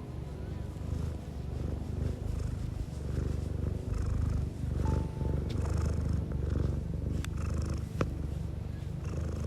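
Domestic cat purring close to the microphone, a low rumble that swells and eases with each breath. A sharp click sounds about eight seconds in.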